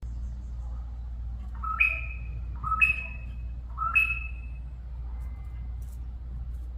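Magpie-lark (peewee) calling three times, about a second apart, each a short clear call that slides up and holds, over a steady low hum.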